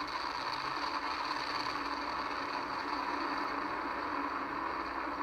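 Falcon 9 first stage's nine Merlin 1D engines burning during ascent: a steady crackling noise, thin and with little low end, as carried on the launch broadcast's audio. The first stage is running at full thrust with propulsion nominal.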